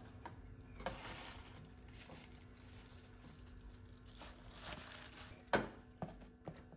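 Food-prep handling sounds: two spells of crinkling and rustling, as of packaging being handled, and a few sharp clicks near the end, over a faint steady hum.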